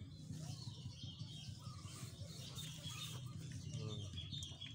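Small birds chirping now and then, short high calls over a steady low hum.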